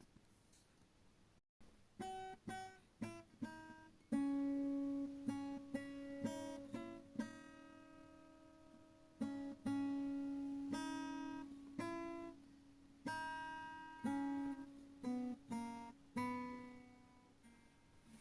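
Background acoustic guitar music: single plucked notes and chords that ring and die away, with a brief dropout about a second and a half in.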